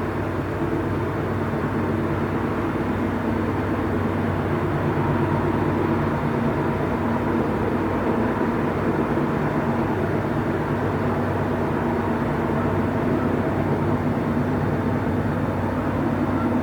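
Train station ambience: a steady mechanical rumble with a constant low hum, like trains standing or running at the platforms.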